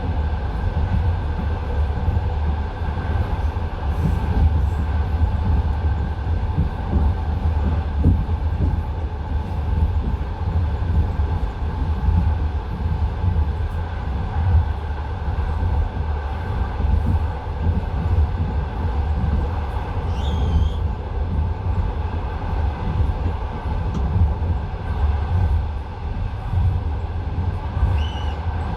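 Passenger train running at speed, heard from a carriage window: a steady low rumble of the running gear with the knocking of the wheels over the rails. Two brief high squeaks come through about two-thirds of the way in and near the end.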